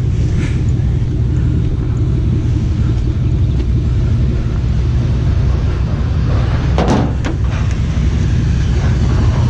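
Truck running down the road, heard from inside the cab as a steady low rumble of engine and road noise, with a brief rattle of clicks about seven seconds in.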